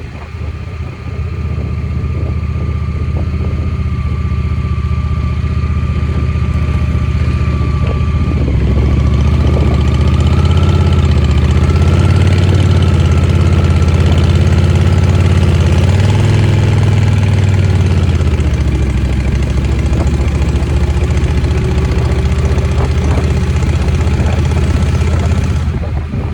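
Motorcycle engine running under way, speeding up and getting louder about nine seconds in, then easing off again after about sixteen seconds.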